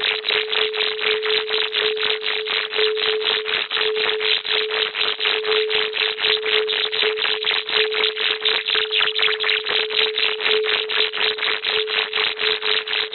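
Electronic sound-therapy track: a single steady tone held under a fast, even pulse of hiss, about five beats a second, never changing.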